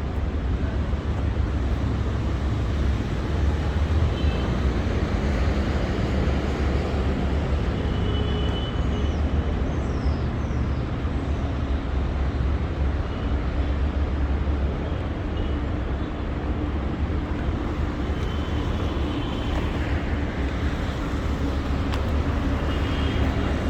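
Steady city street traffic: the continuous rumble of passing motor vehicles, with brief high-pitched tones now and then.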